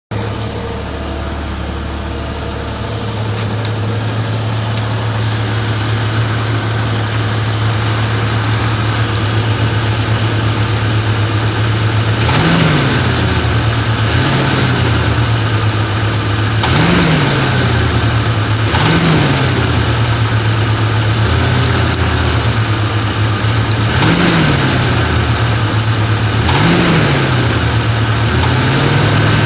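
1994 Jeep Grand Cherokee's 4.0-litre straight-six idling with a knock, the owner's complaint. It is blipped about six times in the second half, each a short rise and fall in revs.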